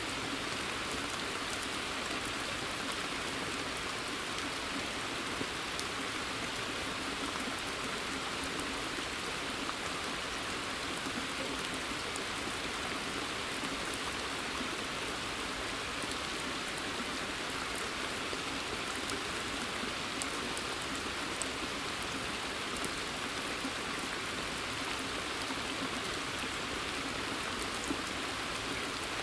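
Steady rain falling in a forest and onto a pond: an even wash of rain with a scatter of individual drop ticks and a few louder drips.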